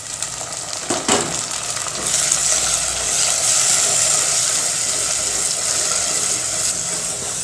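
Small onions and chopped tomato frying in sesame oil in a clay pot, a steady sizzling hiss that grows louder about two seconds in. A wooden spatula stirring them gives a few scrapes about a second in.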